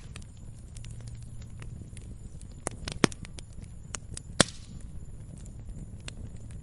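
Log fire crackling: scattered sharp pops and ticks over a low, steady rumble of flame. The loudest pops come about three and four and a half seconds in, the second followed by a brief hiss.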